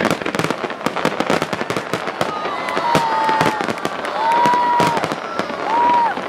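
Aerial fireworks crackling and popping in rapid, overlapping bursts. About halfway through come three drawn-out high-pitched tones, each bending up at its start and down at its end.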